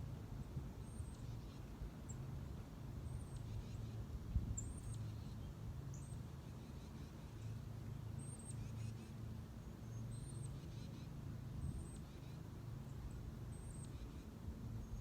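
Small birds giving short, high chirps every second or two, over a steady low rumble.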